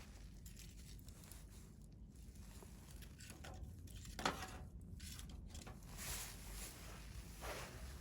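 Campfire burning with faint crackling and hissing, and one sharp pop about halfway through.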